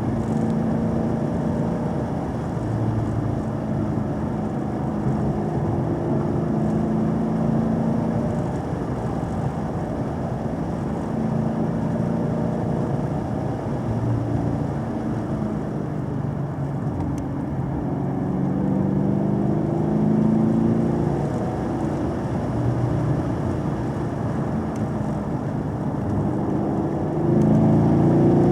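Vehicle engine running under way with road noise, its pitch rising and falling with throttle and gear changes; the revs climb and it gets louder near the end.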